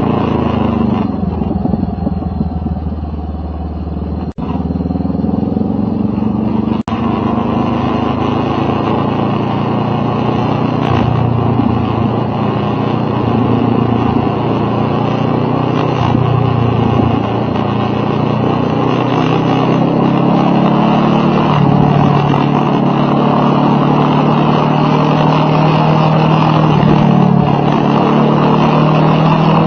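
Motorcycle engine running steadily while under way, its pitch drifting slowly up and down. There are two brief sharp dropouts, about four and seven seconds in.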